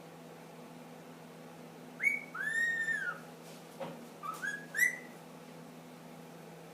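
Indian ringneck parakeet whistling: a short note and then a long arched note about two seconds in, followed by a quick run of three rising notes near five seconds.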